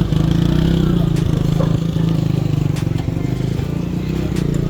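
An engine running steadily close by, a continuous low hum that does not rise or fall, with a few light clicks of street clatter over it.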